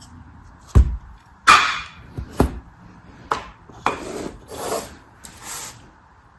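Hands handling packaging in an unboxing: several sharp taps and knocks with short scratchy, rubbing rustles between them, the longest rubbing a little past the middle.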